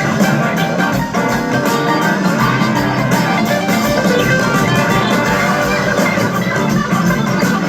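Live rock band playing an instrumental passage: electric guitar over drums and bass, without vocals.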